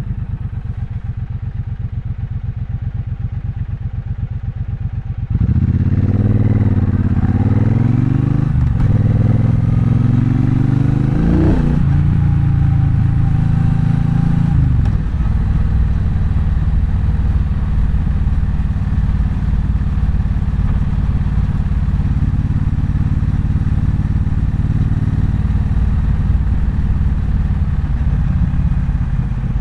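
Triumph Bonneville Bobber's 1200 cc parallel-twin engine running at low revs, then, about five seconds in, getting louder as the motorcycle accelerates: the revs climb and drop back through a few upshifts before it settles into a steady cruise.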